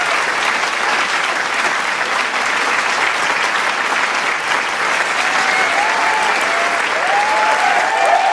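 Large crowd applauding with dense, steady clapping. From about five seconds in, cheers and whoops from many voices rise over the clapping and grow louder toward the end.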